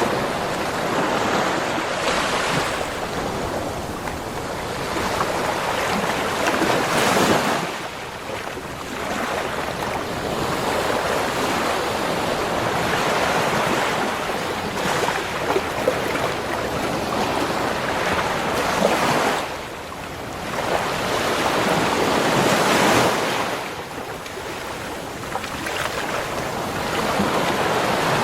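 Ocean waves breaking and washing up a beach: a continuous rush of surf that swells and ebbs, with louder breakers about a quarter and three quarters of the way through.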